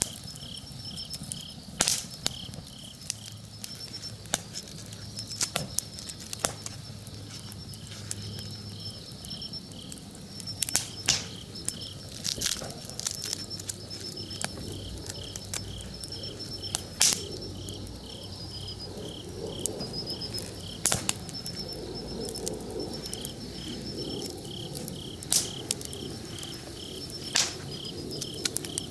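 Wood campfire crackling, with sharp pops every second or two, over insects chirping in steady, evenly pulsed trills.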